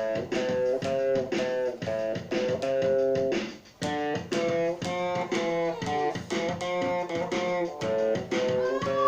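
Guitar being played: a steady run of picked notes, with a brief break about three and a half seconds in.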